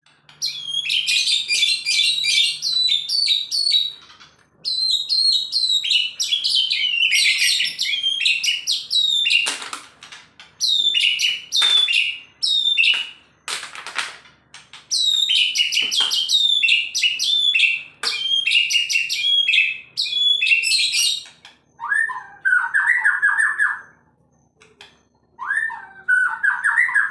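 Male white-rumped shama (murai batu) singing a fast, frenzied song in bursts of a few seconds: rapid runs of high chirps and whistles, with a few harsh scratchy notes, and lower rattling trills near the end. It is a song packed with small-bird imitations ('burcil').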